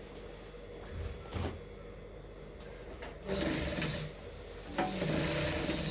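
Electric sewing machine stitching in two short runs, the second starting about a second after the first stops, with a brief knock a little before them.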